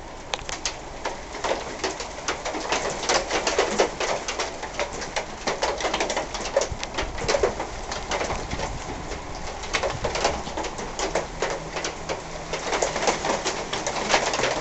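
Thick raindrops from an arriving thunderstorm squall line hitting nearby surfaces in dense, irregular taps that grow louder over the first few seconds.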